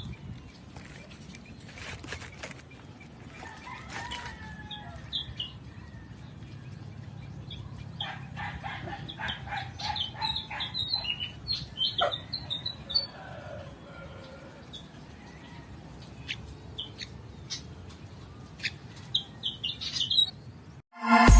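Philippine pied fantail giving short, high, squeaky chirps in irregular clusters, busiest midway, mixed with wing flutters and rustling.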